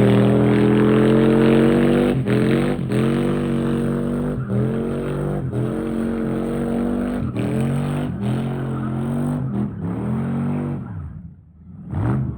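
Turbocharged 6-litre V8 in a Chevy C10 running hard at high revs, the pitch holding and creeping up. It is broken about once a second by short cut-outs before it drops away near the end.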